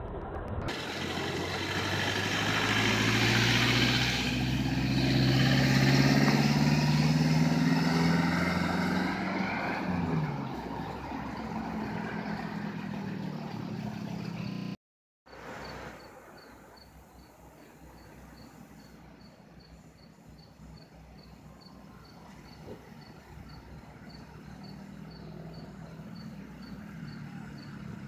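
A motor vehicle passing close by, its engine rising steadily in pitch as it accelerates over about ten seconds, then fading away. After a brief cut the sound is quieter and steady, with a faint high chirp repeating evenly.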